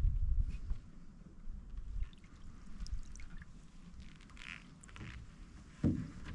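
Canoe paddling on calm water: water trickling and dripping off the paddle blade, with a low rumble at the start and a single thump near the end.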